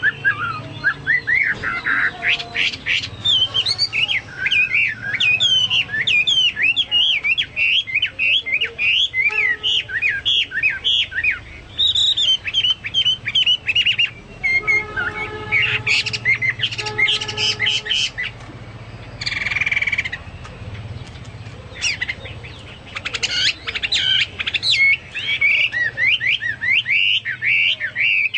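Chinese hwamei singing vigorously: a fast, unbroken run of varied whistled phrases that imitates songbirds such as the cucak Papua or cucak mas. About two-thirds of the way through there is one short harsh note.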